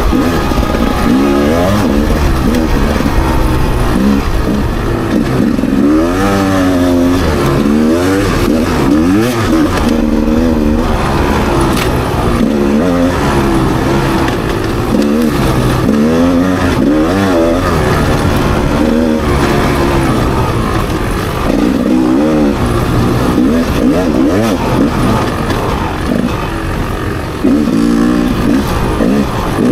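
Rieju MR300 two-stroke enduro motorcycle engine being ridden hard, its note repeatedly rising and falling as the throttle is opened and closed, over a steady low rumble.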